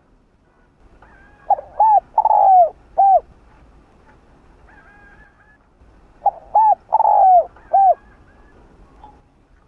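Spotted dove cooing: two phrases of four coos each, about five seconds apart, the third note of each phrase longer than the others.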